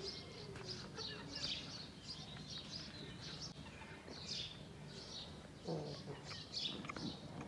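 Birds chirping, short high calls repeating a couple of times a second over faint outdoor background noise.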